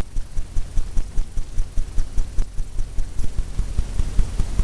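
Rapid rhythmic tapping of a paint-loaded painting tool against a stretched canvas, about five dull thuds a second, working paint onto a rock.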